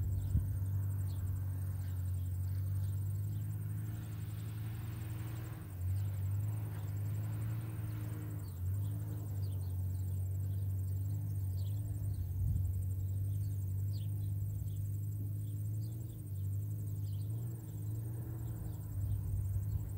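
Nissan Safari's engine heard from a distance as it climbs a steep hill under load: a steady low drone whose pitch dips and rises slightly a couple of times.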